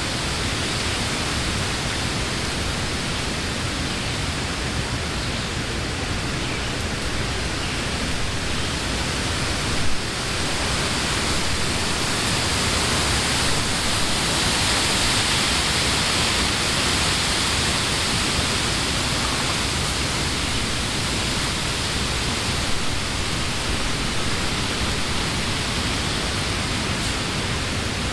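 Wind blowing through the trees of a summer wood: a steady rush of rustling leaves that swells into a stronger gust about halfway through. There is a brief bump about ten seconds in.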